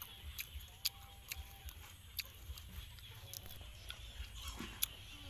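Close-up eating sounds: wet chewing and lip-smacking clicks, irregular and a few a second, as a piece of grilled eel with chili sauce is eaten.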